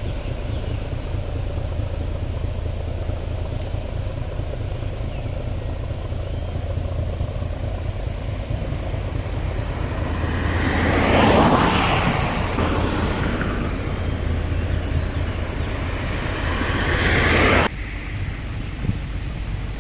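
Steady low wind rumble on the microphone of a moving bicycle, with a road vehicle passing close about ten seconds in, swelling up and fading away. Near the end a second vehicle sound builds and then cuts off abruptly.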